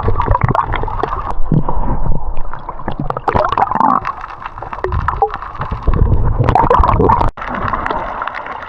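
Sea water gurgling and sloshing, muffled, with a heavy low rumble, as heard by a camera in and around the water while snorkeling.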